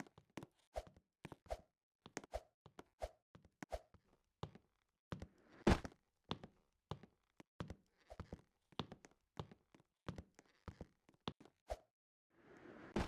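An irregular series of light knocks or taps, about one or two a second, with one heavier thud about six seconds in and a brief hiss near the end.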